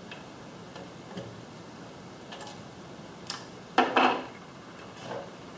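Small clicks and light metallic clatter of hand tools, a screw and parts being handled, with a pair of sharper knocks about four seconds in.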